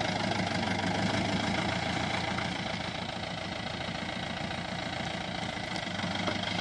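Mahindra Bolero SUV engine running steadily at low revs as the vehicle creeps slowly over a gravel bank.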